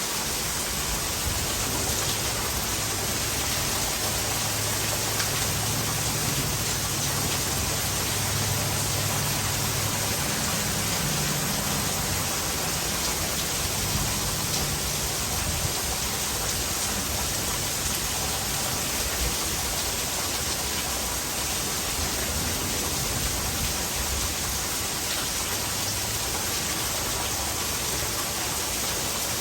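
Heavy rain falling steadily, with runoff water pouring into a gutter. A low rumble runs underneath through roughly the first half.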